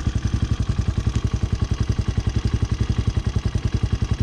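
Hawk 250cc motorcycle engine idling steadily in neutral, with an even, rapid pulse of about a dozen beats a second; the engine is still warming up.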